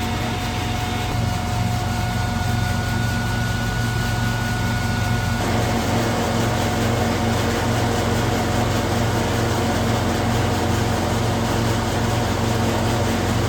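Hazelnut threshing machine (patoz) and its engine running steadily. A thin high whine drops out about five seconds in, and the lower running sound grows fuller after it.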